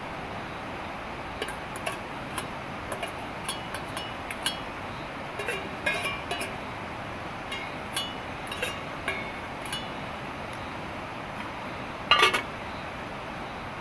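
Steady hiss of heavy rain, with scattered light clinks and clicks of small hard objects knocking together, and a short louder clatter about twelve seconds in.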